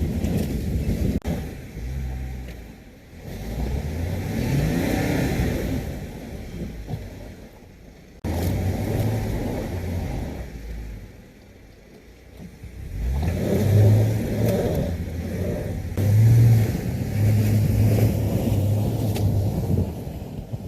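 Jeep Gladiator's engine revving in several pushes, the pitch rising and falling back between them, with a sudden jump in level about eight seconds in.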